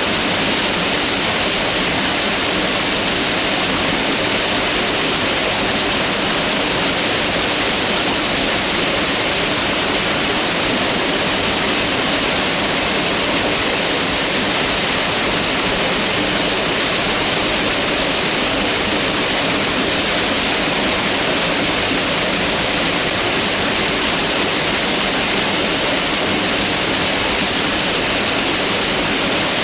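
Mountain river water rushing steadily, a constant loud hiss of fast-flowing water.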